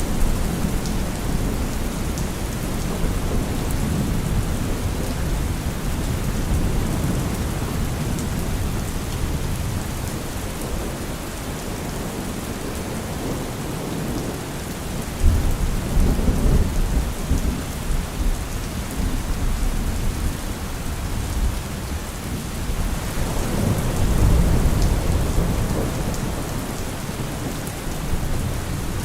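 Steady heavy rain falling, with rolling thunder rumbling low beneath it; the thunder swells about halfway through and again near the end.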